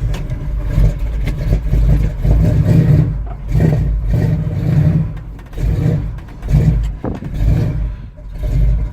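1984 Chevy K30 pickup's carbureted V8 cold-starting at −3°F with no working choke. It runs rough, surging and sagging in uneven pulses about once a second as it struggles to keep going.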